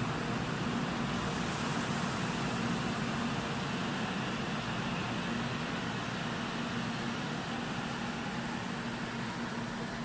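N700-series Shinkansen train pulling out and running past along the platform: a steady rushing noise with a low hum, slowly fading as the last car draws away.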